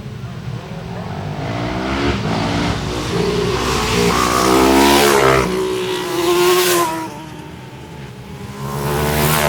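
Racing motorcycles passing at speed, engine note climbing in pitch and loudness as they approach; the loudest pass is about five seconds in with another close behind, then a lull before the next bike comes up near the end.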